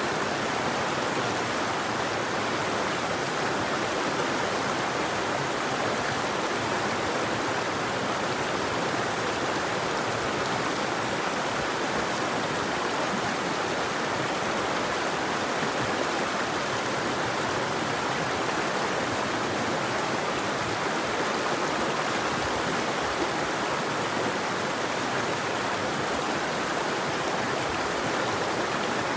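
River water flowing in a steady, even rush, with no birdsong.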